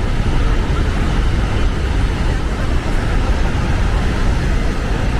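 Niagara Falls' water pouring, a steady rushing noise that is heaviest in the low end.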